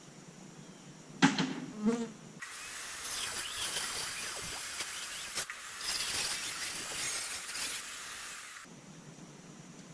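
Two sharp knocks, then a small power tool buzzing with a high hiss for about six seconds, starting and stopping abruptly.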